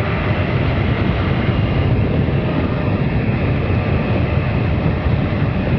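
Steady wind rush from riding a Triumph Sprint RS motorcycle at road speed, heaviest in the low end, with the bike's engine running underneath.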